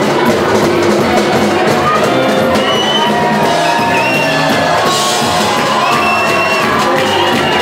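A live band playing samba, with shouts and whoops from the crowd over the music.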